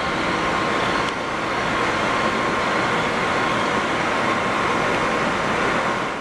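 NJ Transit passenger train running along the platform tracks: a steady rumble of wheels on rail with a faint steady hum on top. It dips briefly about a second in and falls off near the end.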